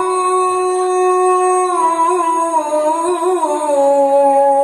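A man's voice in melodic Quran recitation, holding one long drawn-out note without a break. It wavers in small ornaments and steps down in pitch about halfway through.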